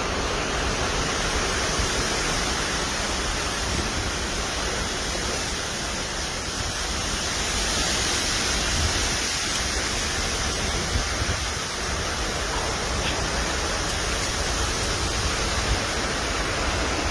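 Strong wind blowing steadily, a constant rushing hiss with a heavy low rumble of wind buffeting the microphone.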